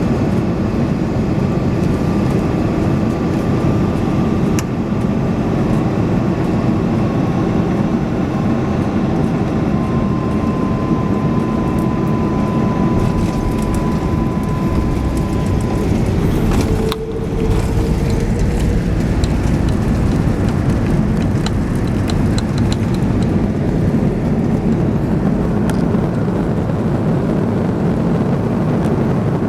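Loud, steady cabin noise of an Airbus A330-300 during its landing, heard from a passenger seat: a deep rumble with light rattling from cabin fittings. The roar dips briefly about two-thirds of the way through.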